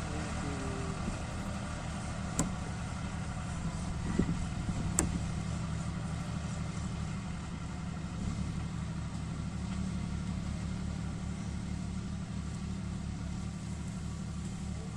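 Diesel tractor engine running steadily, with two sharp clicks about two and a half and five seconds in.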